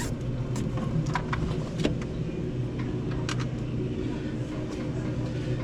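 A steady low machine hum, with scattered light clicks and knocks of parts being handled over it.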